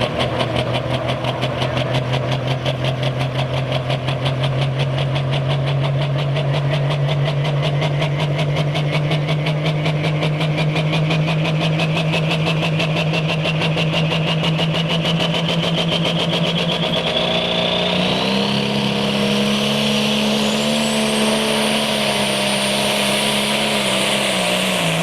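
Turbocharged diesel pulling tractor running hard under load down the track, its turbocharger whine climbing steadily in pitch over the run. About eighteen seconds in, the engine note steps up.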